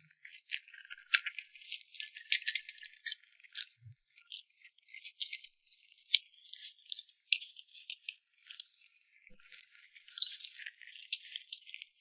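Close-miked eating sounds: a dense run of small wet clicks and crackles from chewing and mouth movement, without a pause.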